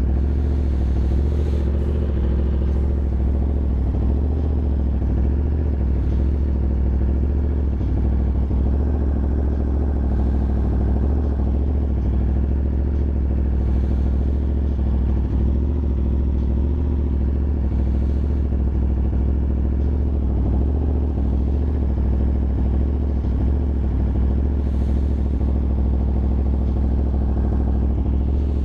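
Yamaha R1 sport bike's inline-four engine running steadily, with no revving.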